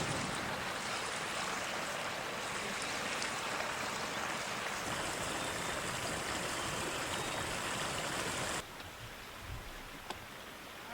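Pressure washer spraying water: a steady rushing hiss that cuts off suddenly about eight and a half seconds in.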